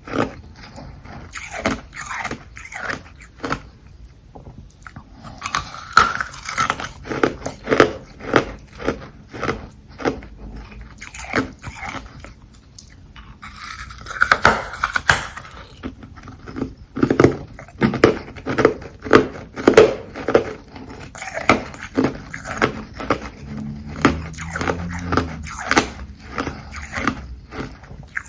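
Close-up crunching of carbonated ice being bitten and chewed: a dense, irregular run of crisp crunches, with two short hissier crunching stretches about six seconds in and about halfway through.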